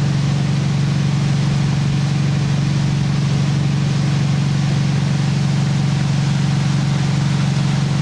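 Ski boat's engine running steadily at towing speed, a constant low hum with a wash of wind and water hiss over it.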